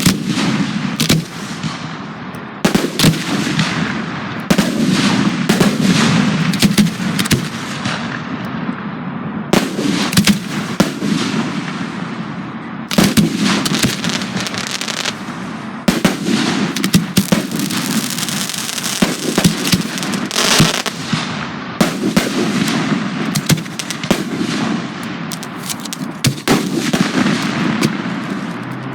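Professional fireworks display: a dense barrage of aerial shell and cake shots and bursts, sharp bangs several times a second overlapping with continuous crackle.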